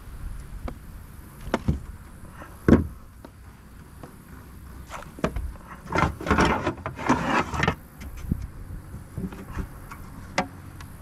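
Scattered knocks and clicks, with a stretch of louder rustling and scraping about two-thirds of the way through, from handling a landed fish and fishing gear.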